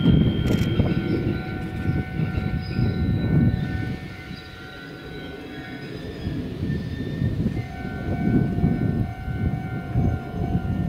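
Electric commuter train running on the line, its wheels rumbling unevenly on the rails. Steady high-pitched tones ring above the rumble, and a new pair of them comes in about two-thirds of the way through.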